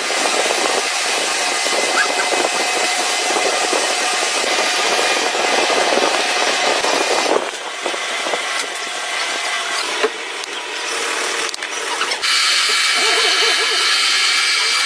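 A power tool running with a steady whine over a hiss. The sound changes about seven seconds in, and again about twelve seconds in, where a higher whine comes up.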